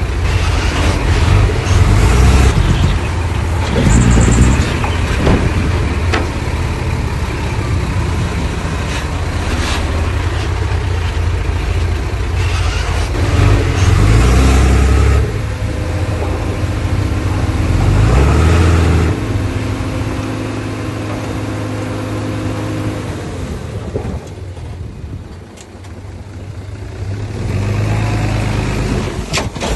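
Heavy diesel engines of earthmoving machinery running, with engine speed rising and falling and several loud surges under load. The engines settle steadier in the middle and quieten briefly near the end.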